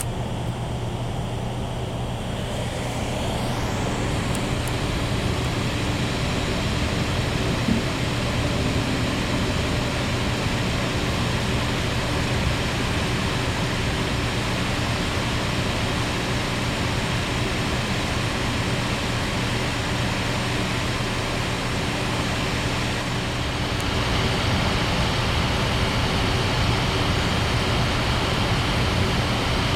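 Running noise inside a former München-Nürnberg-Express passenger coach on the move: a steady rumble and rush from the wheels and track with a low hum, getting a little louder about three-quarters of the way through.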